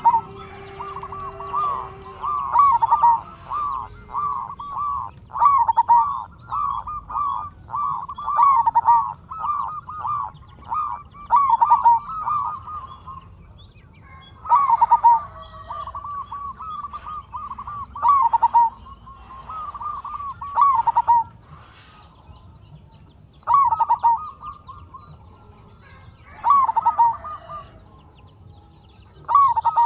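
Zebra dove (perkutut) cooing in rapid staccato phrases of high-pitched notes. The phrases run almost unbroken for the first dozen seconds, then come in short bursts every few seconds.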